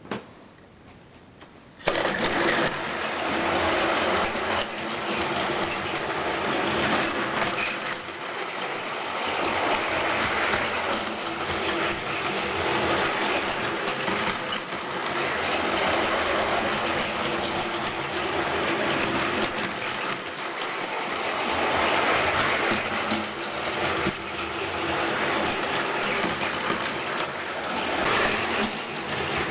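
Battery-powered Plarail toy train running, its small electric motor and gears whirring steadily. The whir starts about two seconds in.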